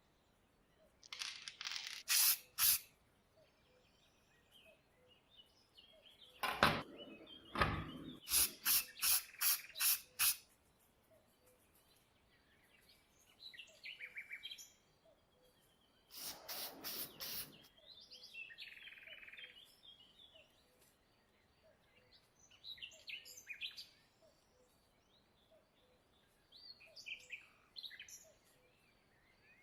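Three bursts of short noisy strokes from hand work, the middle one ending in a run of about six strokes at roughly two a second. Small birds chirp on and off in the background.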